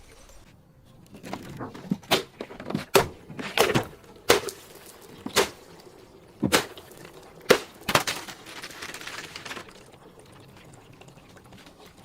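Something crunchy being crushed: about ten sharp, separate cracks at irregular intervals, with a short crackling just after the last one.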